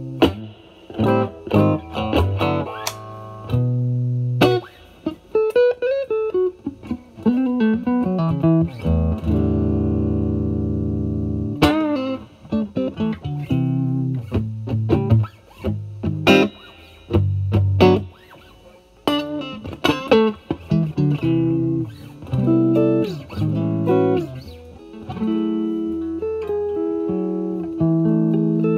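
Electric guitar, a Fender Stratocaster, played through a Vertex Steel String Clean Drive overdrive pedal with its gain at 9 into the clean channel of a Marshall Valvestate amp. It plays a blues-style run of picked single notes, string bends and chords, with one chord held for a couple of seconds near the middle.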